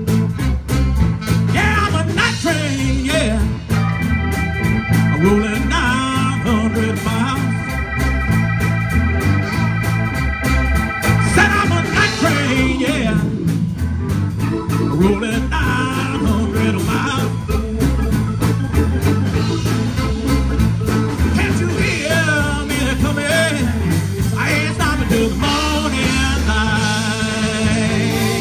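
Live blues-rock band playing an instrumental break: steady bass and drums under guitar, with a sustained chord held from about four seconds in for several seconds and bending lead lines later on.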